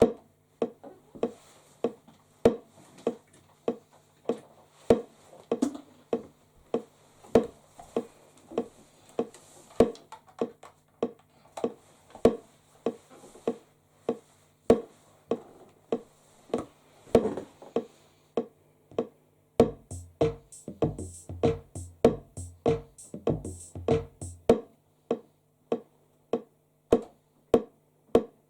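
Electronic music: a drum machine beat over steady held synthesizer tones, with a heavier low bass pattern joining about two-thirds of the way through.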